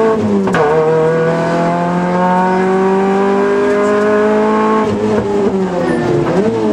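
Rally car engine heard from inside the cabin under hard driving. The revs drop sharply at a gear change about half a second in, then climb slowly and steadily. Near the end they dip and rise again a couple of times.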